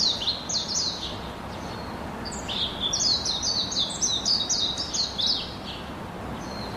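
Bird chirping in quick runs of short, high, falling notes: a brief run at the start, then a longer run from about two and a half seconds in, over a steady background hiss.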